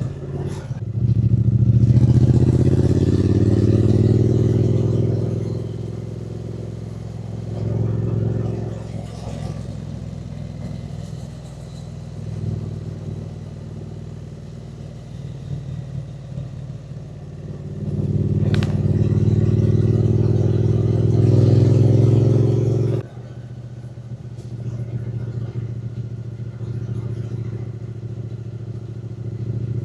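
Triumph Speed Twin 900's parallel-twin engine on the move, rising in pitch under acceleration about a second in and again about 18 s in. The second pull cuts off suddenly about 23 s in as the throttle closes, and the engine runs lower and steadier in between and afterwards.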